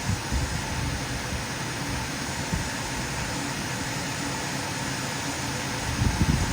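Steady whirring noise of a fan or running motor, with a few soft low knocks near the end.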